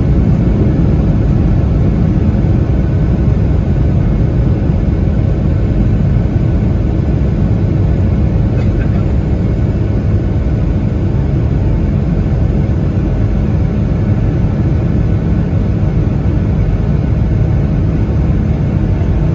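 Steady low rumble heard from inside the cabin of a Boeing 757-200 jetliner, with a faint steady hum above it and no change in level.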